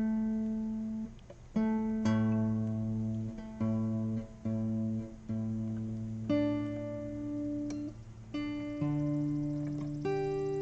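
Twelve-string acoustic guitar played alone, a new plucked note or chord about every second, each left to ring. Its strings are due for changing.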